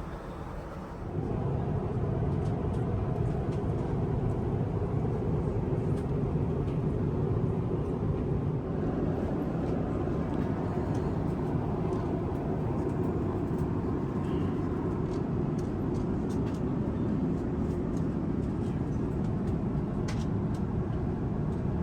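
Steady in-flight cabin noise of an Airbus A350-1000 at cruise: a low, even rush of engine and airflow noise that steps up in level about a second in, with a few faint clicks.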